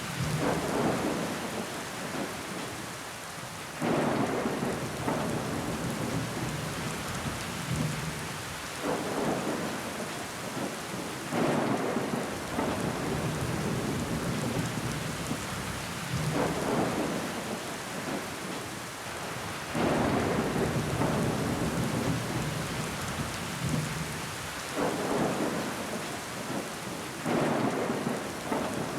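Steady rain falling on window glass, with heavier surges of rain every three to five seconds.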